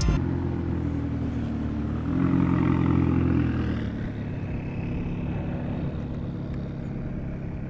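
Car engine running, its revs and loudness rising about two seconds in, then dropping back and fading away.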